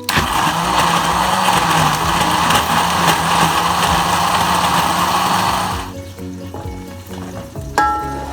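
Electric blender motor running at full speed with a steady hum, then switched off about six seconds in.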